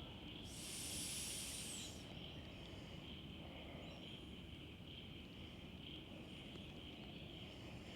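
Faint, steady chirring of insects, with a short, loud hiss about half a second in.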